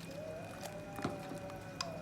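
Background devotional chant with a voice holding a wavering sung note, and two sharp clicks, about a second in and near the end.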